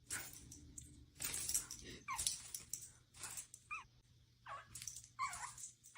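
A dog whimpering: three short, high whines that slide in pitch, about a second and a half apart, with faint scuffling noises between them.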